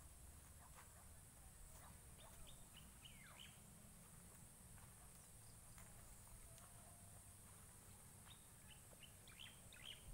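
Faint bird chirping: a short run of quick chirps about two seconds in and another near the end, over a low background rumble.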